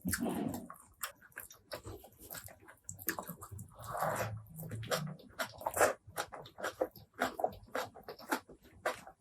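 Close-miked mouth sounds of eating spicy pork curry with rice: wet chewing, with many quick lip smacks and clicks, and two longer wet sounds, one near the start and one about four seconds in.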